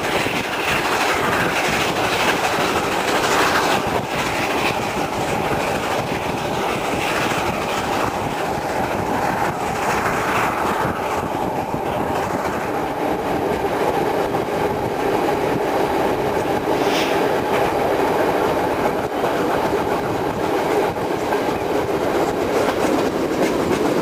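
Steam-hauled passenger train running at full speed, heard from an open carriage window: a steady rush of wheel and rail noise with the wheels clattering over the rail joints.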